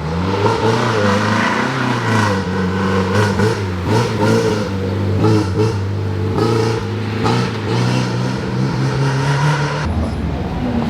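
Rally car engine revving hard on a forest stage, the pitch climbing and dropping several times as it accelerates, lifts off and changes gear.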